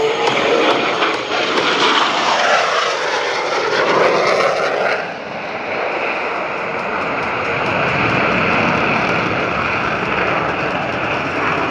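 Boeing F/A-18 Super Hornet jet engines passing overhead in a loud, continuous rush. The sound sweeps in pitch over the first five seconds, then settles into a steadier roar with a high whine.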